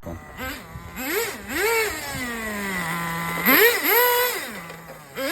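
Small nitro glow engine of an FTX Banzai 1/10-scale RC drift car revving up and dropping back in quick blips, about five times, with one long falling slow-down about two seconds in.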